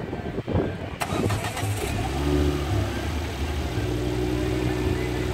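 Ford Focus RS engine starting: a short click, then about a second in the engine fires with a brief flare of revs and settles into a steady idle.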